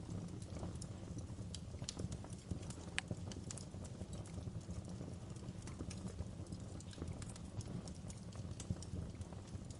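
Wood fire burning in a fireplace, crackling: irregular sharp pops and snaps over a steady low rumble of the flames, with one stronger pop about three seconds in.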